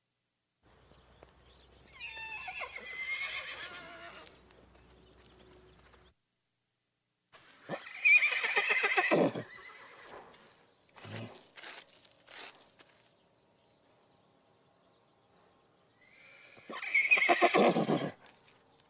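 Horse whinnying three times, each call falling in pitch and lasting about two seconds. A few short knocks come between the second and third calls.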